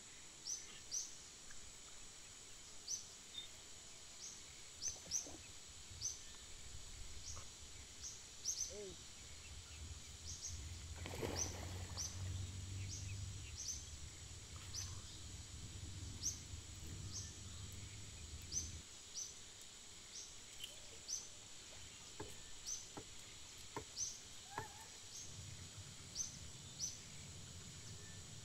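Outdoor rural ambience: short, high chirps repeat about once or twice a second throughout, like a small bird calling, over a steady high-pitched hiss. A low rumble, like wind on the microphone, swells in the middle and fades out.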